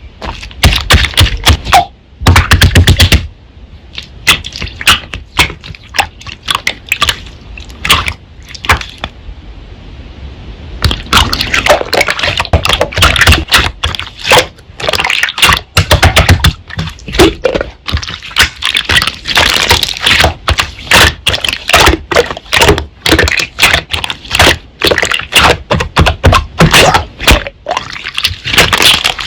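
Slime being squeezed, folded and poked by hand, giving quick clicks and wet pops that thicken into a dense crackle about a third of the way in.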